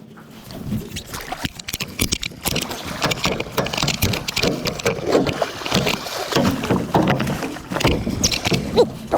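Irregular splashing and many sharp knocks against a small boat, with no steady rhythm, while a large hooked halibut is at the boat's side.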